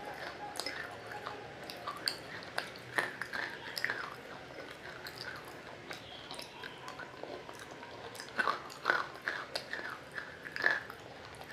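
Close-up biting and chewing of water-soaked roasted nakumatt, hard dark grey pieces: a run of wet crunches and crackles at an irregular pace. The loudest bites come near the end.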